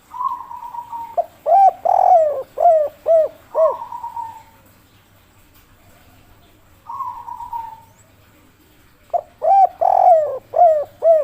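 Spotted dove (tekukur) singing the 'kuk 3' cooing song: a drawn-out coo, then a quick run of short rounded coos and another drawn-out coo. The full phrase comes twice, at the start and again near the end, with a lone drawn-out coo in between.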